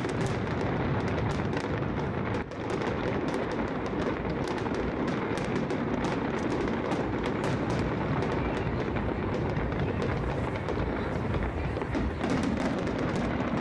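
Aerial fireworks display: many shells bursting and crackling in quick succession, a dense continuous barrage with one brief dip about two and a half seconds in.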